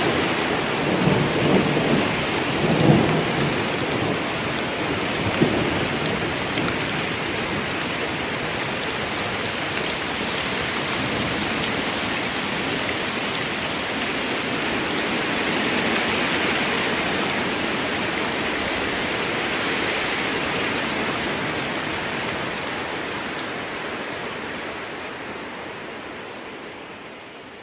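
Steady rain falling on forest leaves, with low rolls of thunder rumbling in the first few seconds. The rain fades out near the end.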